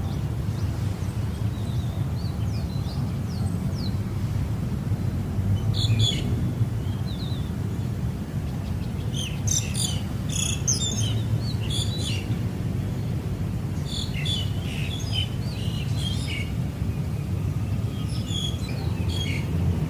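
Small birds chirping in short clusters of quick high calls about a third of the way in, around the middle, and near the end, over a steady low rumble.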